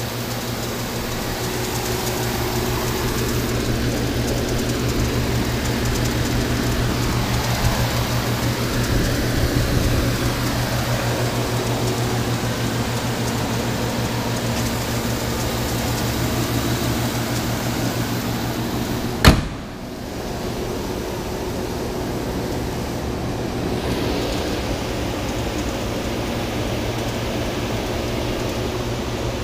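A 2012 Chevrolet Avalanche's 5.3-litre V8 idling steadily with an even low hum. A single sharp bang about two-thirds of the way through is the loudest sound, and after it the engine sounds duller.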